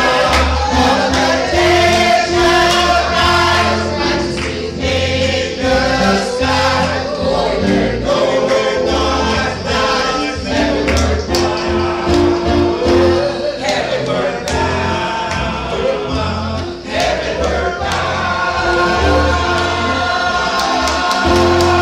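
A choir singing a gospel hymn with instrumental accompaniment and sustained bass notes beneath the voices.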